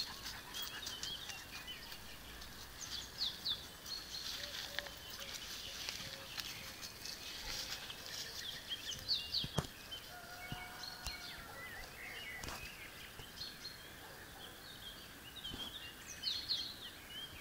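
Songbirds chirping, short quick calls scattered every second or so over a steady outdoor hiss. A few sharp clicks come in between.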